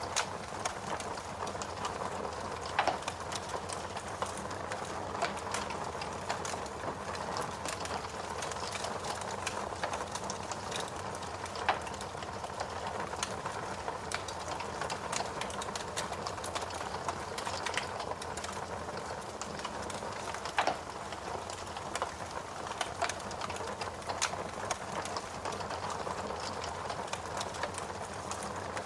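Wood fire crackling in a fireplace over a steady rain hiss, with frequent small crackles and a few louder pops.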